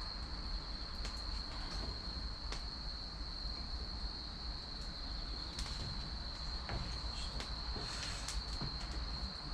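An insect singing a steady, high, unbroken trill, with sharp pops and crackles from a burning wood fire of chestnut and cherry logs every second or so.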